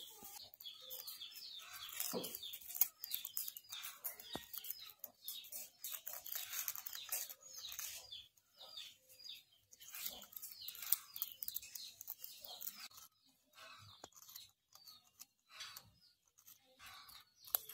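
Birds chirping: a rapid series of short, falling chirps, with scattered clicks among them, thinning out in the last few seconds.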